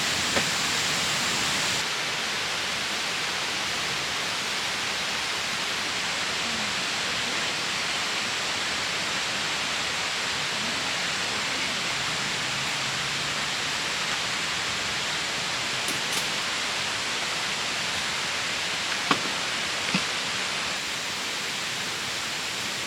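Steady rushing of a river's flowing water, an even hiss with no let-up, with a couple of faint clicks near the end.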